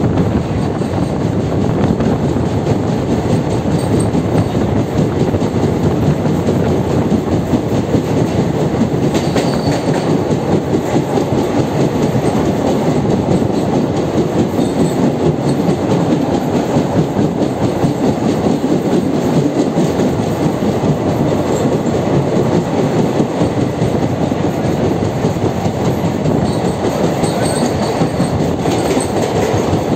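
Indian Railways train running along the track: a steady, loud rumble with the clickety-clack of wheels on the rails.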